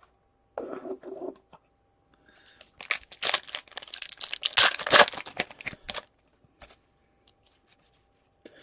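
A hockey card pack's foil wrapper being torn open and crinkled: a dense run of crackling tears lasting about three seconds, loudest near the middle.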